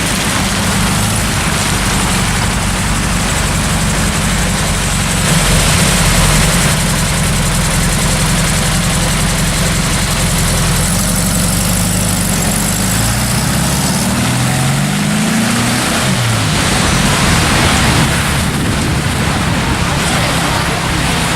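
Car engine running steadily at low revs over street noise, then rising in pitch as it accelerates, once about two-thirds of the way through and again near the end.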